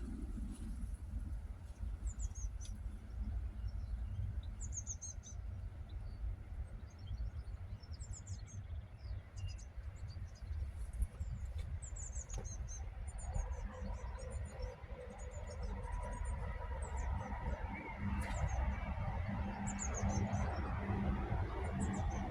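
Small birds chirping and singing in short high phrases over a steady low rumble. About halfway through, a broader hum joins in and grows louder toward the end.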